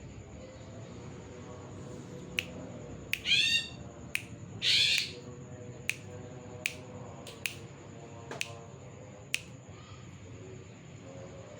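Cucak ijo (green leafbird) calling: sharp single chips spaced about a second apart, a quick run of falling notes, and just after it a short harsh rasping call, the loudest sound.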